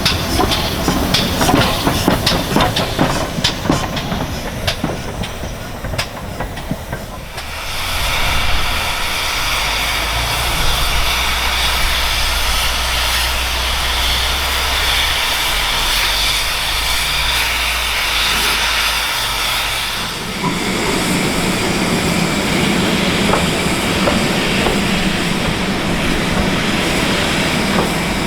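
A steam-hauled train running past, its wheels clicking over the rail joints. About seven seconds in, this changes abruptly to a steady hiss of steam over a low rumble. About twenty seconds in, the wheel clicking over a low hum returns.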